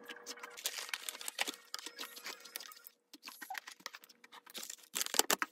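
Close-up crunching and chewing of a crisp cookie: a rapid run of crackles with a short pause about three seconds in, the loudest crunches near the end.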